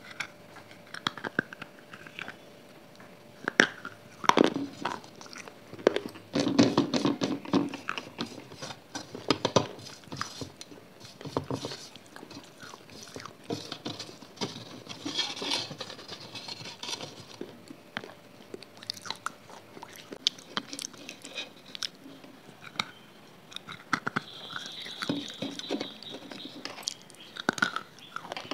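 Close-miked eating sounds: irregular wet chewing and biting with quick clicks of the mouth, busiest and loudest from about six to ten seconds in.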